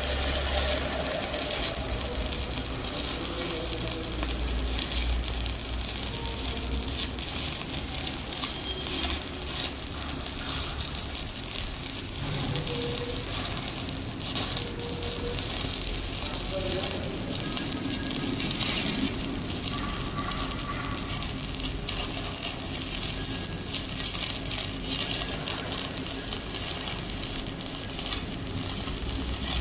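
Stick (shielded metal arc) welding: the arc crackles and sizzles steadily as a 3G vertical weld is run. A low hum sits under it for roughly the first ten seconds.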